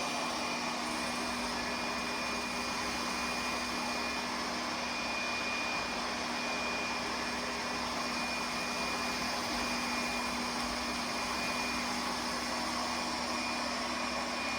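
Lefant M1 robot vacuum cleaner running, its suction motor giving a steady rushing noise with a constant low hum and a high whine.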